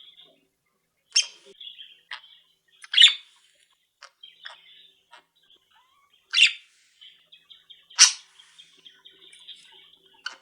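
Small pet cage birds chirping and chattering: a steady quiet twittering with four loud, sharp chirps spread through it.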